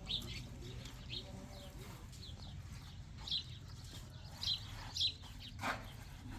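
Birds chirping: short, high chirps repeated every second or so over a steady low background rumble.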